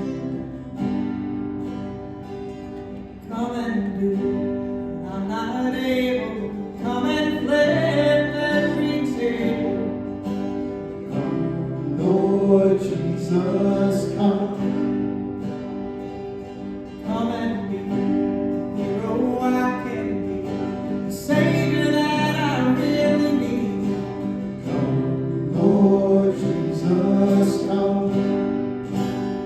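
A song performed on strummed acoustic guitar with a singing voice, sung in phrases over sustained chords.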